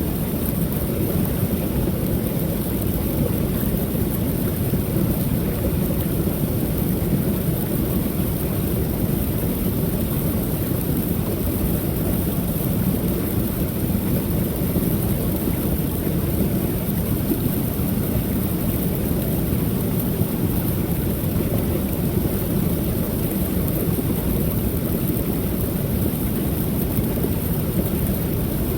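Creek waterfall: a steady, unbroken rush of falling water, deep and rumbling, heaviest in the low range.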